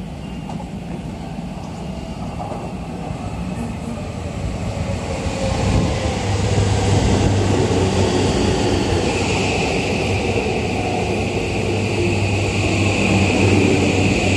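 Tokyo Metropolitan Bureau of Transportation 5500 series electric train arriving at the platform: a whine falling in pitch as it slows, then the rumble of the cars passing close by. A steady high-pitched tone joins about nine seconds in.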